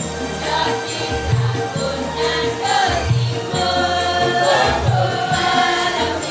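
Choir singing with instrumental accompaniment over a steady low beat.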